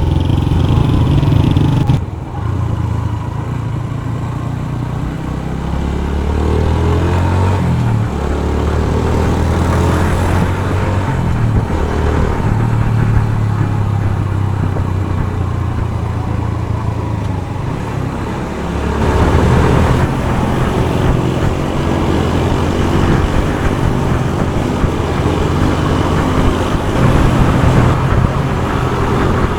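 Motorcycle engine running under way in traffic, with road and wind noise. The engine pitch drops about two seconds in, then rises as the bike speeds up around six seconds in and again near twenty seconds.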